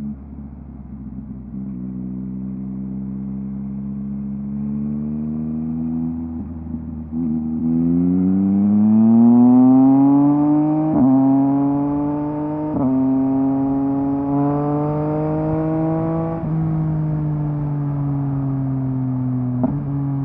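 A 2023 Yamaha MT-09's inline three-cylinder engine running through a LeoVince LV Race exhaust while the bike is ridden. It runs steadily, then accelerates with rising pitch from about eight seconds in, broken by two quick upshifts. It holds speed for a few seconds, then the rider rolls off and the pitch falls near the end.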